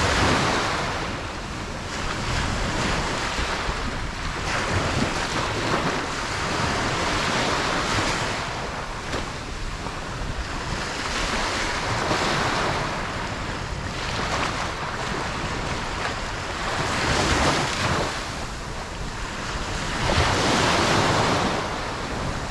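Ocean waves breaking and washing up a beach, the surf swelling and easing every few seconds, with wind buffeting the microphone.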